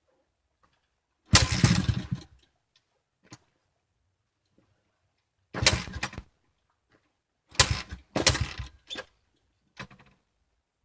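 Honda CRF110's small single-cylinder four-stroke engine cranked on half choke in about five short attempts, sputtering briefly each time without catching: a hard cold start. The last three attempts come in quick succession near the end.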